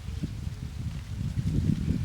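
Wind buffeting the microphone outdoors: an irregular low rumble that swells over the two seconds.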